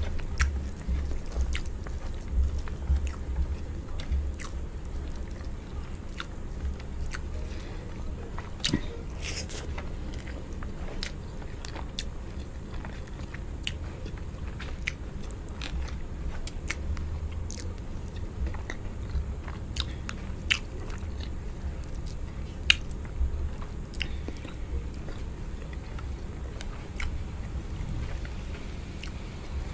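Close-up chewing and mouth sounds of a person eating rice, palava sauce and chicken by hand, with many short sharp clicks scattered throughout over a low rumble.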